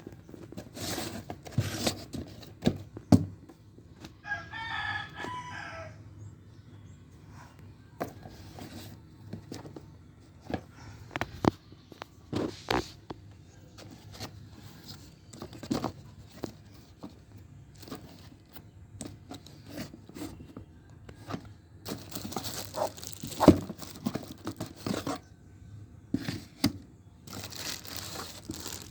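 Packaging of a mini ceiling fan being unboxed: plastic and cardboard rustling, crinkling and tearing, with scattered clicks and knocks of parts being handled. Two louder rustling spells come near the end. A short animal call sounds once about four seconds in.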